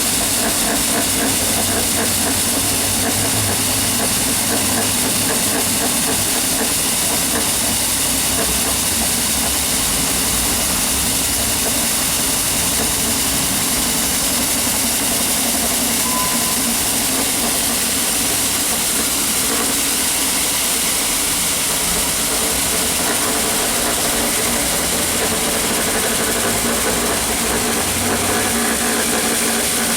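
Battery-powered ride-on floor scrubber running steadily: a constant high hiss over a low motor hum.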